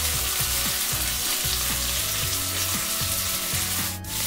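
Beef burger patty frying on an oiled cast iron plancha, a steady sizzle that dips briefly near the end.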